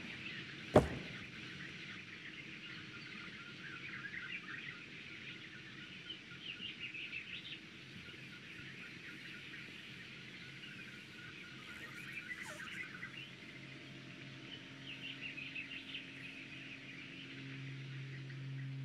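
Faint birdsong: short, scattered chirps, with a single sharp knock about a second in. A low steady hum comes in during the last few seconds.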